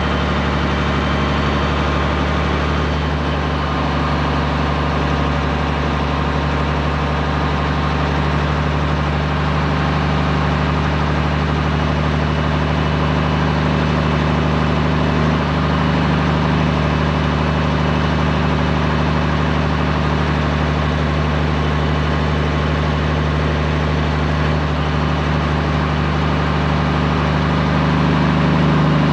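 Straight-piped Peterbilt 389 semi truck's diesel engine running steadily with a deep, even exhaust note, getting a little louder near the end.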